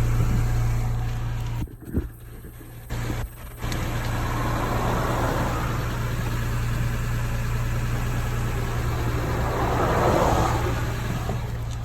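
Honda Odyssey minivan's engine idling with a steady low hum, with a rushing noise over it that swells and fades twice. The owners are checking it for a suspected exhaust or vacuum leak.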